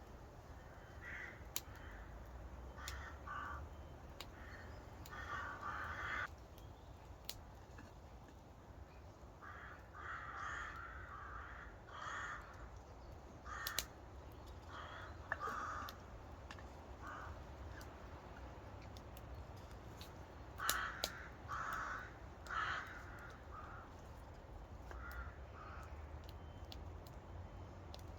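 Birds calling: harsh, repeated calls in short runs of two to four, spread through the whole stretch, with a few sharp clicks between them.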